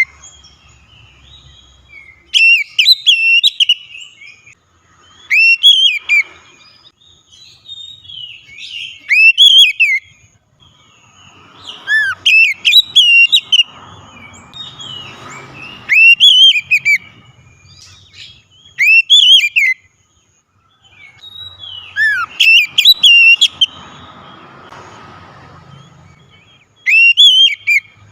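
Oriental magpie-robin (kacer) singing loud, clear whistled phrases, each a quick run of rising and falling notes. About nine phrases come a few seconds apart.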